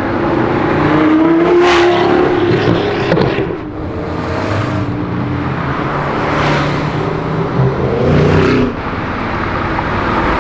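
Supercars driving past one after another, about five in turn, their engines accelerating as each one goes by.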